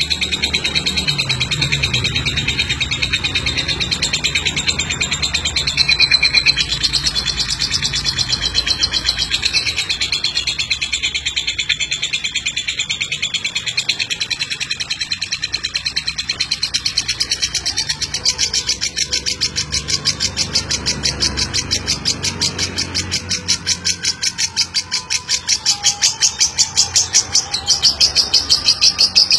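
Lovebird singing a long, fast, high-pitched chattering trill (ngekek), with rapid repeated notes that grow louder over the last few seconds.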